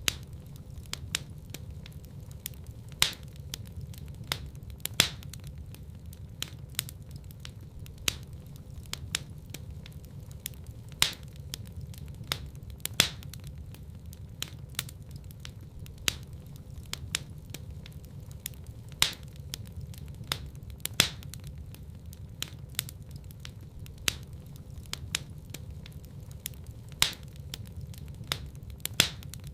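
Wood fire burning in a fireplace: a steady low rumble of flames with frequent irregular crackles and snaps, a few of them sharper, louder pops.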